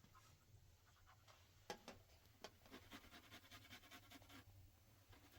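Faint scratching with a few light clicks from kitchen utensils being handled, the scratching quickening into rapid soft ticks about halfway through.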